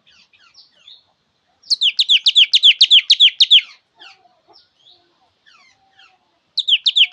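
Thanh tước songbird singing: a fast, loud trill of about a dozen downward-slurred notes lasting about two seconds, then soft twittering, and the trill starts again near the end.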